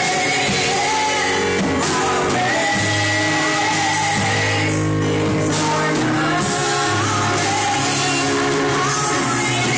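Live gospel worship music: voices singing a melody over a band, with a bass line that changes note every couple of seconds.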